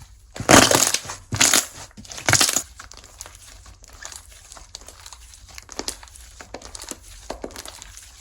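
Slime being pressed, stretched and poked by hand, giving crackly, clicking pops. Three louder crackling squelches come in the first few seconds, then a steady patter of small clicks.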